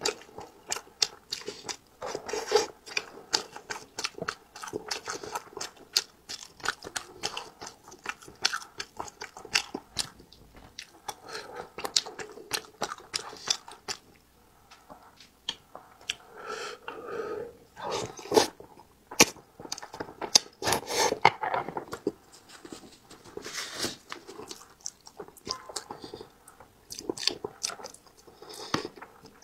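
A man chewing mouthfuls of spicy braised fish at close range, with irregular wet clicks and smacks from his mouth.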